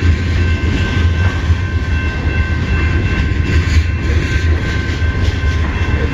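CN freight train rolling past close by: a loud, steady low rumble with a thin high ringing tone held over it.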